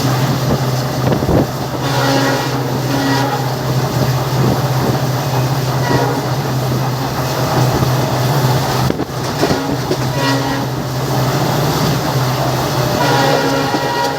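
Train hauled by twin WDP4D diesel locomotives running at speed under acceleration: a steady low drone with rail clatter, and a higher tone that comes and goes several times.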